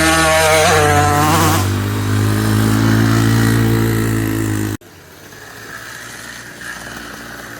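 Dirt bike engine revving up, its pitch rising over the first second and a half, then running steadily. The engine sound cuts off abruptly almost five seconds in, leaving a much quieter background.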